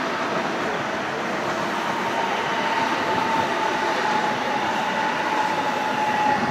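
An ICE trainset rolling past on the rails with a steady rush of wheel and running noise. From about two seconds in, a faint whine sits over it and drifts slightly lower.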